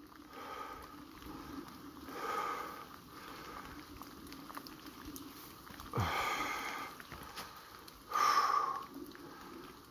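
A hiker breathing hard, with heavy breaths coming about every two seconds, the strongest two near the end.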